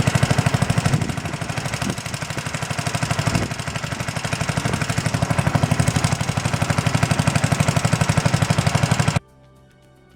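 Single-cylinder 8 hp Briggs & Stratton engine on a Mayrath mini tractor running with a rapid, even pulsing beat, a little quieter for a couple of seconds early on. It cuts off abruptly near the end, giving way to quiet music.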